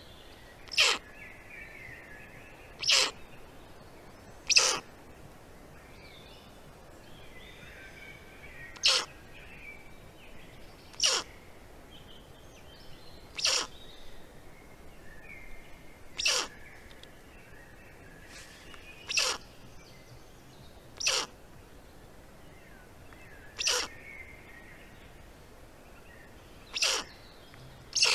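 A bird gives a short call about a dozen times, every two to four seconds, with faint songbird twittering between the calls.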